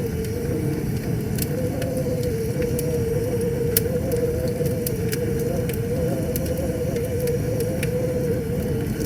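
Wood fire crackling, with irregular sharp pops, over a steady low rush of river water and a steady wavering hum.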